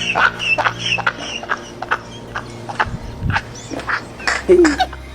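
A string of sharp, irregular clicks and knocks, with a low thud about three seconds in and a short falling tone a little after four seconds.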